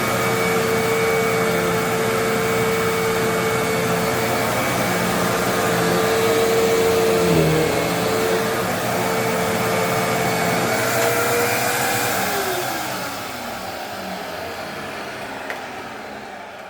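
Hoover WindTunnel Twin Chamber bagless upright vacuum running, with its motor whine dipping briefly in pitch about halfway through. It is switched off about 12 seconds in and its motor spins down with a falling whine.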